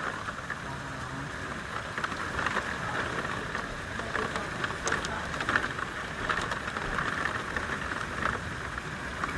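Heavy rain falling steadily during a thunderstorm, a constant hiss with many sharp ticks of drops striking a hard surface.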